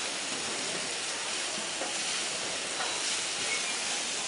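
Food frying at a market stall: a steady sizzling hiss with a couple of faint clicks.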